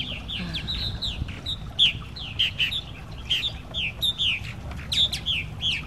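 Purple martins calling: a busy run of short, downward-sliding chirps, several a second, over a low steady rumble.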